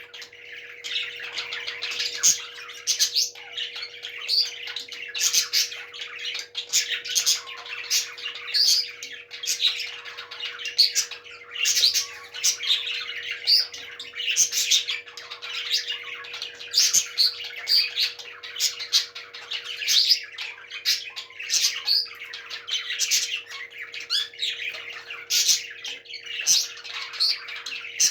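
Parrots chirping and squawking without a break: a steady stream of short, high calls.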